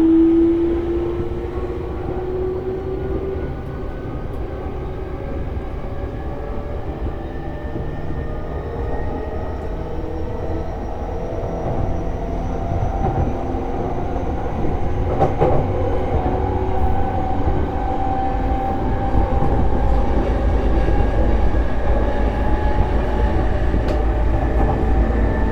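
E233-series electric train accelerating, heard from on board: its traction motors whine with several tones rising steadily in pitch, over a rolling rumble that grows louder as speed builds. A single clack comes about midway.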